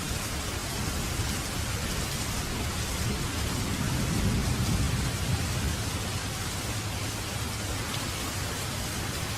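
Steady rain falling. A low rumble of thunder swells about three and a half seconds in and fades out by about six seconds.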